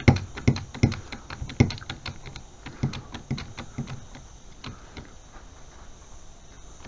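Hand-pumped hydraulic crimping tool being pumped to press a die onto a cable lug: a run of sharp clicks and knocks from the pump handle, roughly two or three a second, thinning out and getting quieter after about four seconds.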